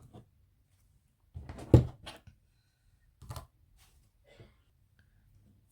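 Tarot cards and deck being handled and set down on a table: a few short knocks and rustles, the loudest under two seconds in, with quieter ones later.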